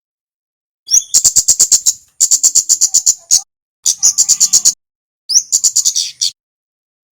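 Kemade (male) calling in four bouts of rapid, sharp, high-pitched chips, each bout about a second long and separated by short pauses, starting about a second in.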